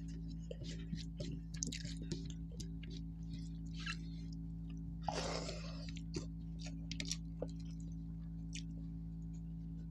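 A person chewing a mouthful of rice and fish curry, eaten by hand, with irregular wet mouth clicks and smacks and a longer noisy rush about five seconds in, over a steady low hum.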